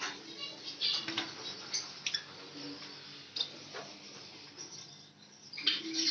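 Small cage birds giving soft, short chirps and squeaks amid scattered light clicks and ticks, growing busier near the end.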